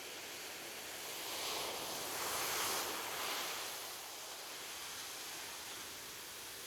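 Gentle ocean waves on a beach: a steady wash of surf, with one wave swelling about a second and a half in, peaking near three seconds and fading back to the background hiss.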